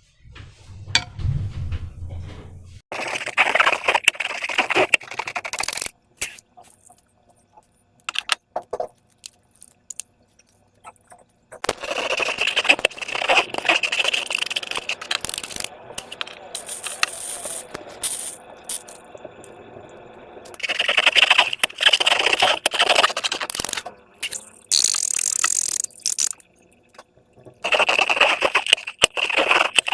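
Hands handling slime and transparent rubber balloons: bursts of crackly scraping and clicking, broken by a few short pauses.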